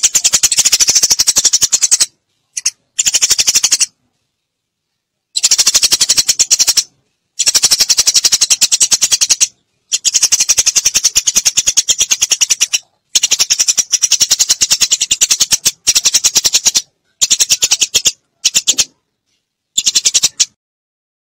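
Eurasian tree sparrow lure call: fast chattering runs of chirps, about one to three seconds each, broken by short silent gaps, with the last run ending just before the end.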